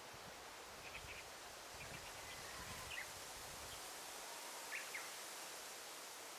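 Daytime forest ambience: a steady hiss with a few faint, short bird chirps scattered through it, and some low rumble in the first half.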